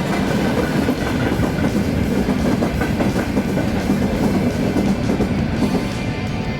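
A train running along the rails, a steady, dense running noise throughout.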